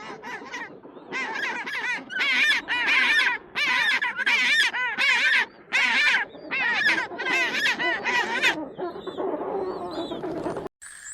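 Domestic geese honking in loud bursts of rapid, repeated calls, fading to fainter calls before cutting off suddenly near the end.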